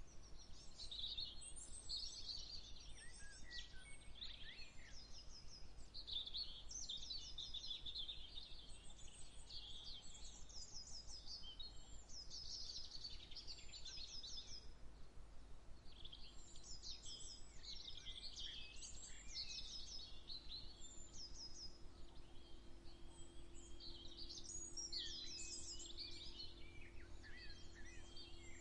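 Several songbirds singing at once in a dawn chorus: overlapping phrases and quick trills of short, rapidly repeated notes, with no pauses between songs. Under them sits a steady low outdoor rumble, and a faint steady low hum comes in about halfway through.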